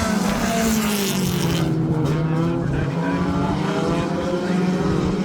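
A field of dirt-track race cars running at racing speed on the oval, the engines' pitch sagging about two seconds in and then climbing again.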